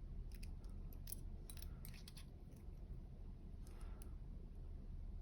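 Faint, scattered small metallic clicks and ticks as a tool presses tiny pins out of a dimple lock's chambers, most of them in the first two seconds, over a low steady hum.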